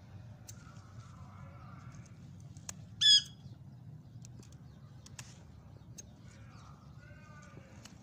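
A bird gives one short, sharp squawk about three seconds in. Around it are a few faint clicks of scissors snipping okra pods and a low steady hum.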